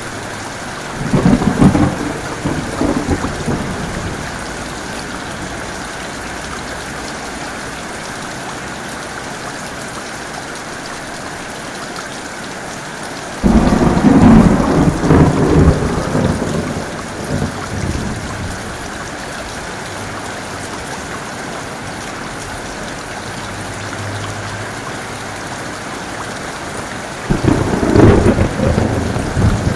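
Heavy rain falling steadily through a thunderstorm, with three thunder rumbles: one about a second in, a sudden, longer and louder one near the middle, and another near the end.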